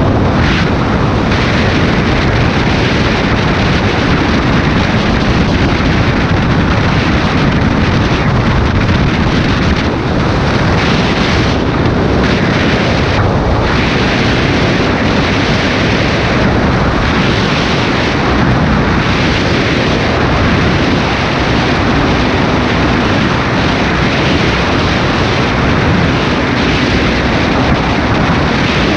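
Honda Tornado's 250 cc single-cylinder engine running steadily while riding at speed, mixed with a heavy, constant rush of wind on the microphone.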